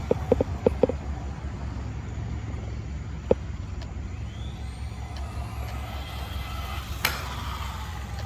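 RC rally car's motor whining, rising and falling in pitch as the car speeds up and slows. A few sharp clicks come at the start, and a single sharp knock sounds about seven seconds in, over a steady low rumble.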